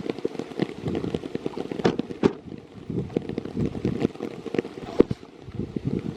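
Rain pattering close to the microphone in an irregular patter, with a few sharper knocks about two seconds in and again near five seconds.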